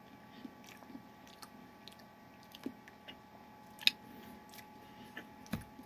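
A person chewing a mouthful of a baked taco-filled snack stick with soft, scattered mouth clicks; a sharper click stands out about four seconds in. A faint steady hum runs underneath.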